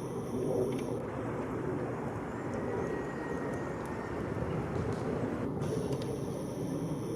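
Steady low rumble of distant road traffic. A faint thin high note is held for about a second and a half, starting about two and a half seconds in.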